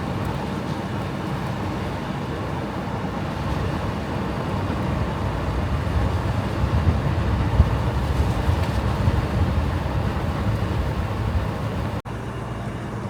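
Steady road and engine noise heard from inside a moving car's cabin, strongest in the low rumble. It breaks off sharply about twelve seconds in.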